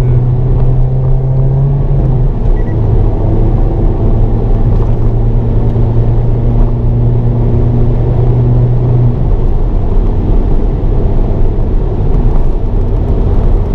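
Hyundai Avante N's turbocharged 2.0-litre four-cylinder engine running on the throttle, heard from inside the cabin over road and tyre rumble. The engine note steps down about two seconds in and drops away about nine seconds in, leaving the rumble.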